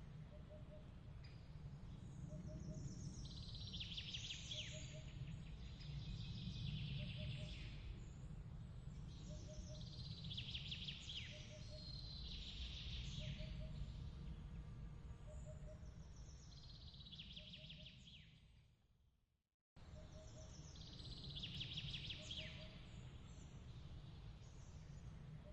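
Layered night ambience: a steady low rumble, a soft chirp repeating about once a second, and flurries of high bird calls every few seconds. Near the end it fades out to silence, then cuts back in abruptly.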